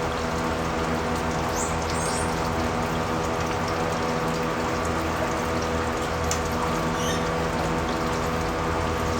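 Steady rushing water over a constant mechanical hum, with a few short high bird chirps about two seconds in and again near seven seconds.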